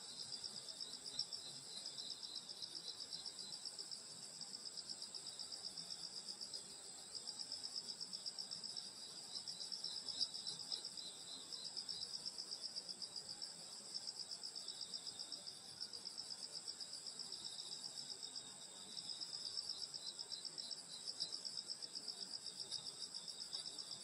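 Chorus of grass insects, crickets among them, on a summer night: a steady, high, rapidly pulsing chirring from several insects at once.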